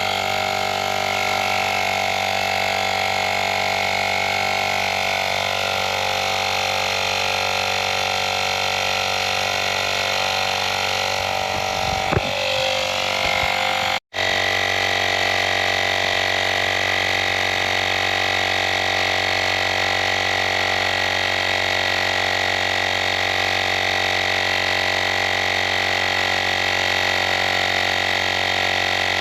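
Rechargeable mini tyre-inflator compressor running steadily, its motor and pump making a constant hum, inflating a car tyre toward its preset 40 psi. The sound cuts out for an instant about halfway through.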